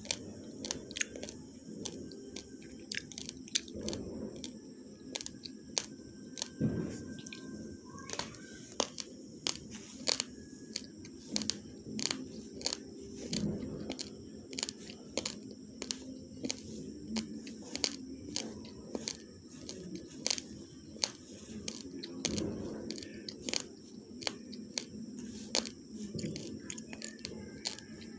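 Someone chewing a mouthful of raw basmati rice, with many sharp, irregular crunches as the hard uncooked grains crack between the teeth.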